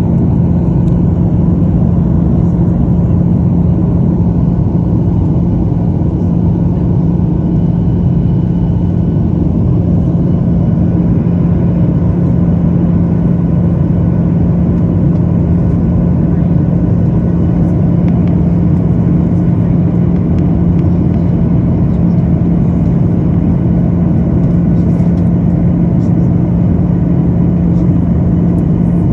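Cabin noise of a Boeing 737-900ER airliner during its descent: a steady, even rumble of engine and airflow noise, with a constant low hum running through it.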